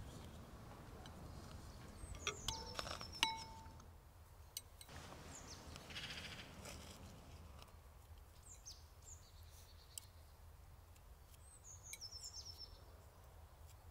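Birds chirping in a few short bursts of high, falling calls, with occasional faint clicks of spoons against ceramic bowls.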